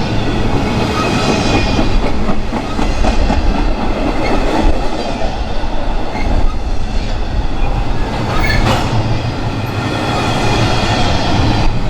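A train rolling past at close range, its steel wheels clicking over the rail joints in a loud, steady rumble.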